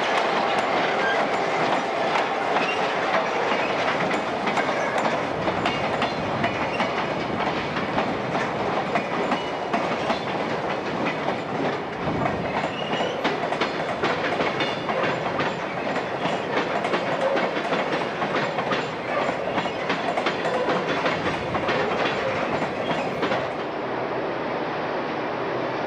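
Freight train rolling past at close range, a steady rumble with its wheels clacking over the rail joints. The sound changes abruptly near the end.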